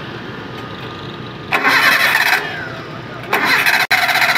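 Daihatsu Espass 1.6 carburetted engine being started. A loud burst of running comes about a second and a half in and drops back after about a second. It picks up loudly again a little after three seconds and keeps running.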